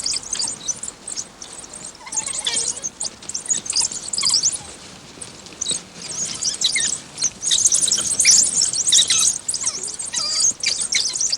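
African wild dogs (hunting dogs) calling: many short, high-pitched calls in quick succession, overlapping most thickly in the second half.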